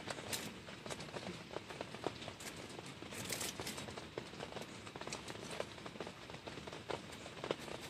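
Rain falling steadily, with many irregular drops tapping close by.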